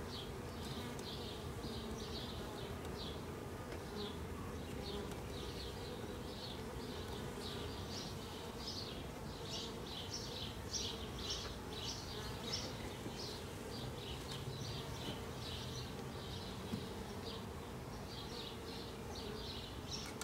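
Honey bees of a swarm buzzing steadily around their nuc box, with short high chirps repeating a couple of times a second over the hum.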